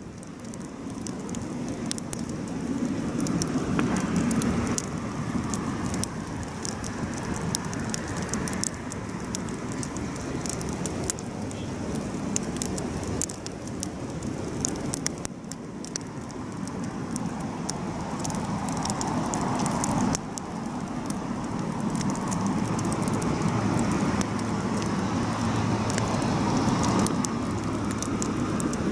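Campfire burning: a steady rushing of flames with frequent sharp crackles and pops, fading in over the first few seconds.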